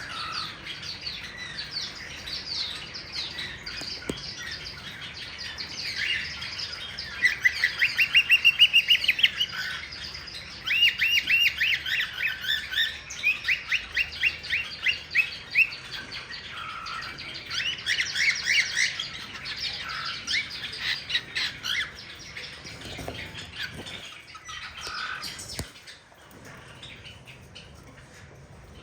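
Cockatiels chirping and squawking, with several fast runs of repeated short notes, about five a second, in the middle; the calls die down to faint chirps near the end.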